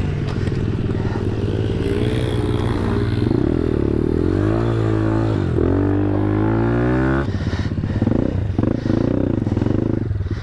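Single-cylinder ThumpStar pit bike engine under throttle off-road. It revs up, rising in pitch for a few seconds, then the throttle is cut abruptly about seven seconds in and the engine runs on at lower, uneven revs.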